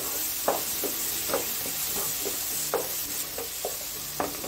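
Shallots and chopped tomatoes sizzling in oil in a frying pan while a spatula stirs them, scraping and tapping against the pan about once a second.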